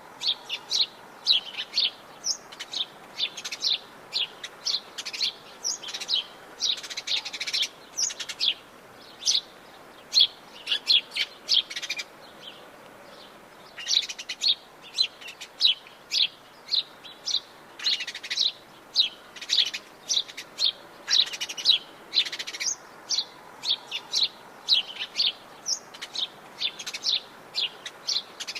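Wild birds chirping and singing: a fast run of short, high chirps one after another, with a brief lull about twelve seconds in.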